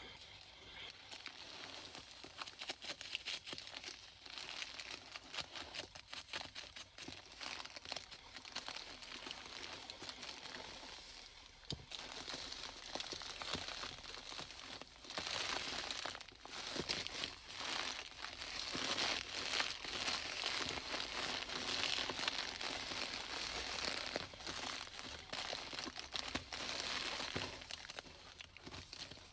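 Beach litter being handled up close: dense, irregular crinkling and crumpling, busiest and loudest in the second half.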